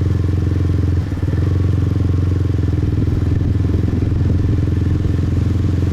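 Motorbike riding at an easy pace: a steady low engine and road rumble, heavy with wind on the head-mounted microphone, dipping briefly about a second in.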